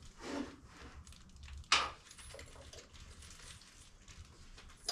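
Small metal hardware and hand tools being handled during engine-bay work. About two seconds in there is one sharp metallic clink, followed by a few lighter clicks.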